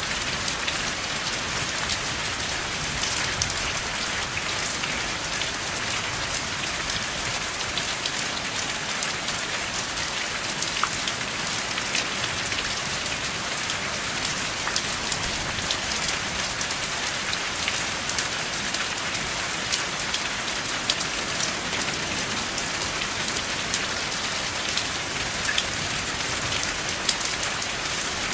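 Steady rain falling, a dense even hiss dotted with many sharp individual drop ticks, with no thunder.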